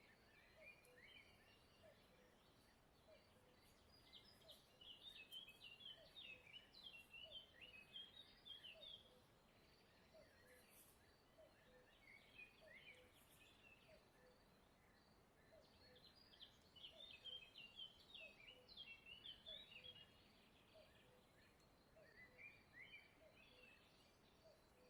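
Faint birdsong: bouts of quick chirping phrases, over a soft low note that repeats a little more than once a second.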